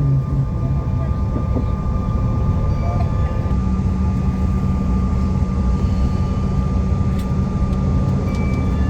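Loud, steady airliner cabin noise on the ground just after landing: engine and rolling rumble, with a steady low hum joining about three and a half seconds in.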